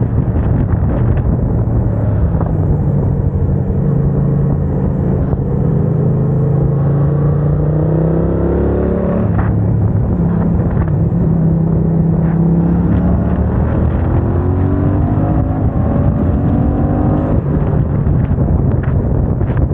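Yamaha MT-07's 689 cc parallel-twin engine through a MIVV aftermarket exhaust, accelerating hard with the revs climbing. The revs drop with a quick clean break at upshifts, about halfway through and near the end, made with the HealTech quickshifter without closing the throttle.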